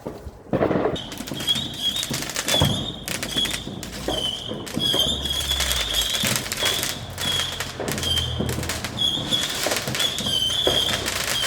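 Fireworks going off in a dense run of cracks and bangs, with a high, wavering whistle that keeps coming back through it. The sound starts suddenly about half a second in.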